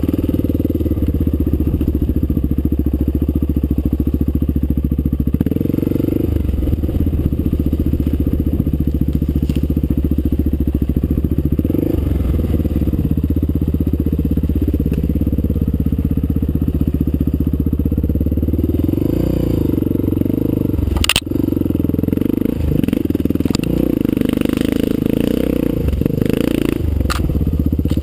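Honda XR600's air-cooled single-cylinder four-stroke engine running under way off-road, its pitch rising and falling with the throttle. A single sharp knock comes about three-quarters of the way through.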